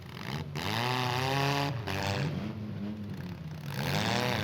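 Demolition derby vehicles' engines revving, pitch climbing and falling again several times as the drivers gun the throttle.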